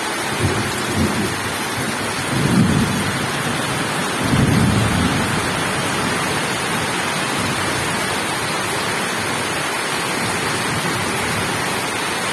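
Heavy downpour: a steady hiss of rain throughout, with several short low rumbles in the first five seconds, the strongest about two and a half and four and a half seconds in.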